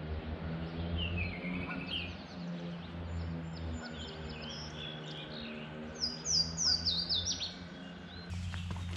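Wild songbirds singing: scattered chirps early on, then a quick run of about six high, falling notes some six seconds in. A steady low hum runs underneath.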